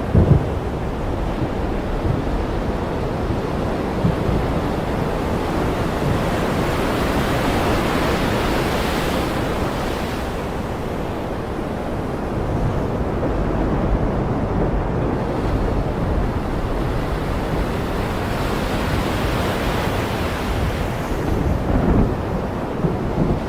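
Ocean surf with wind: a continuous rushing wash of waves that swells into a louder surge about nine seconds in and again near the end.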